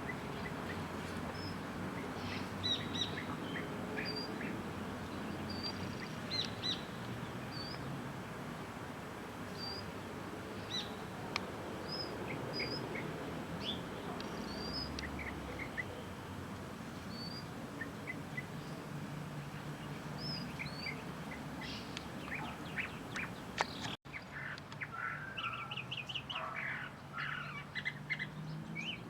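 Small birds chirping over steady background noise, short calls following one another throughout. About three-quarters of the way through, the background noise drops and the chirping becomes denser and louder.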